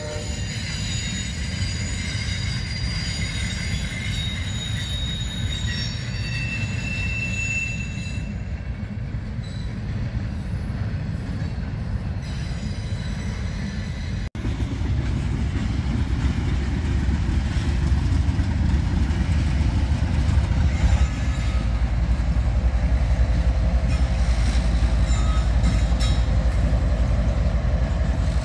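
Freight train cars rolling past with high, thin wheel squeal over the rumble of the wheels on the rails. After a cut about halfway, a CSX diesel locomotive passes close, its engine giving a steady low rumble that is louder than the cars before it.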